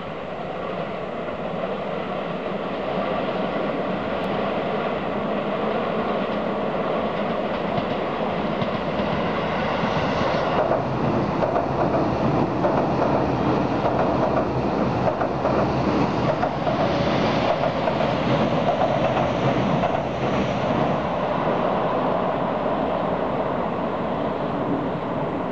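Keio 7000 series electric commuter train passing at speed, its wheels clattering over the rails. It grows louder, is loudest for about ten seconds in the middle as it goes by, then eases off as it moves away.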